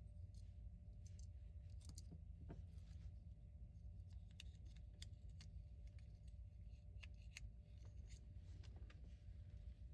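Near silence: a steady low room hum with faint, scattered small clicks and taps, clustered about two to eight seconds in, typical of small parts being handled on a workbench.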